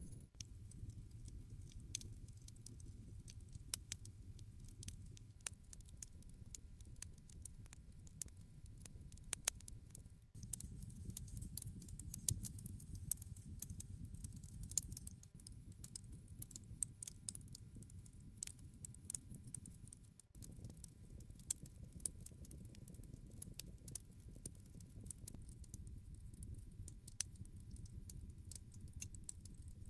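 Wood campfire crackling: irregular sharp pops and snaps from the burning wood, several a second, over a low steady rumble of the flames.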